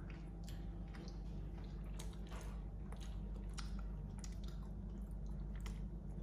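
Close-up chewing of dark chocolate: irregular wet mouth clicks and smacks several times a second, over a steady low hum.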